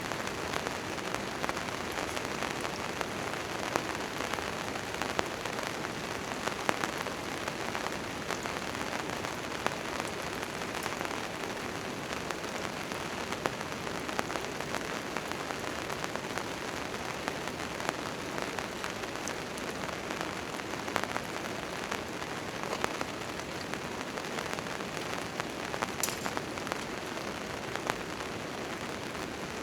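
Steady rain falling on a tent tarp, an even hiss of rain with many sharp ticks of single drops striking the fabric.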